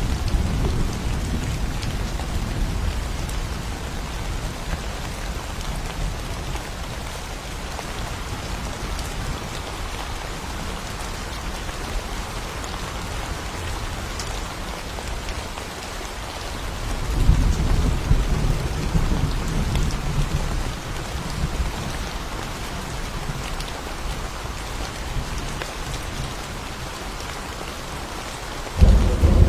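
Steady rain with thunder: a rumble dies away in the first seconds, another rolls in about 17 seconds in, and a sudden loud clap breaks just before the end.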